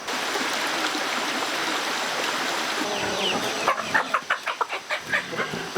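A steady hiss, then chickens clucking in quick, repeated calls from a little past halfway through.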